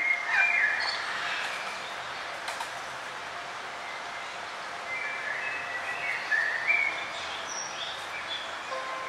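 Forest songbirds chirping: a cluster of short whistled calls in the first second, a quieter stretch, then more chirps from about five seconds in, over a steady background hiss.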